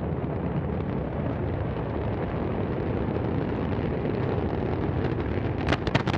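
Antares rocket's first-stage engines running at liftoff, a steady rumbling noise, with several sharp cracks near the end.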